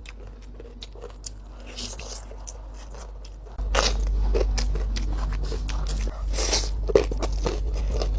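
Close-miked eating: a person chewing and biting into crunchy food. Small clicks at first, then from about halfway louder crunching bites over a low hum.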